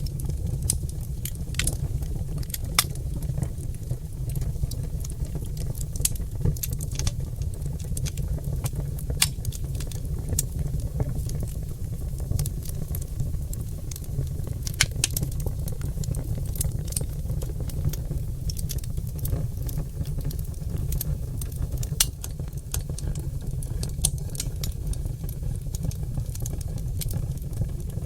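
Oak logs burning in a fireplace, crackling and popping: irregular sharp pops, several a second at times, over a steady low rumble.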